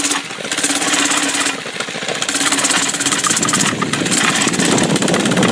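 Mini bike's small engine running with a fast, even beat, growing louder from about halfway through as the bike picks up speed.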